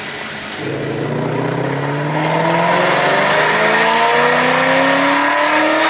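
Ford Mustang GT V8 with headers, an X-pipe and the factory mufflers, accelerating hard. From about half a second in the exhaust note gets louder and rises steadily in pitch as the revs climb.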